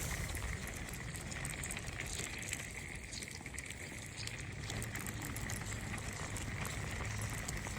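Steady outdoor background noise with a low rumble and scattered faint crackling ticks.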